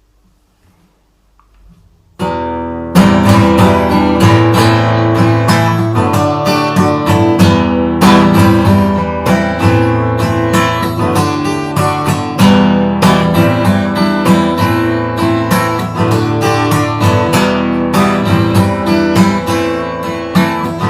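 Acoustic guitar strumming chords, the song's instrumental intro, starting about two seconds in after a moment of near silence.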